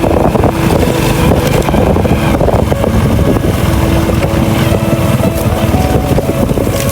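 Small boat's motor running steadily, with its fast, even low pulsing, and wind buffeting the microphone.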